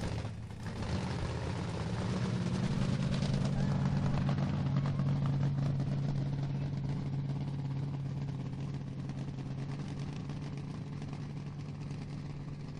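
Monster truck engine running steadily at idle, a deep, even hum that swells a little over the first few seconds and then slowly eases.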